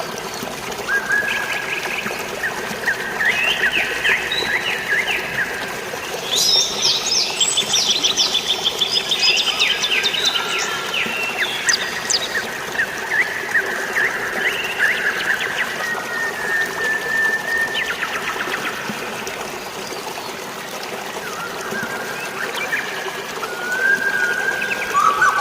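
Several birds chirping and trilling, with a burst of rapid trills in the middle, over a steady hiss of running water and rain.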